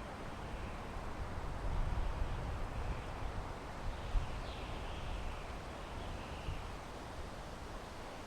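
Wind blowing through pine trees: a steady rushing hiss over a low, gusty rumble that swells and eases. A faint high call sounds about four and a half seconds in and again around six seconds.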